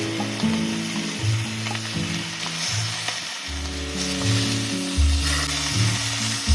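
Food sizzling as it fries in a pan, a steady crackling hiss. Background music with a stepping bass line plays under it.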